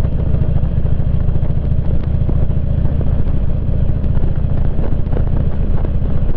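Motorcycle engine running steadily at road speed, with a steady low rumble and road noise.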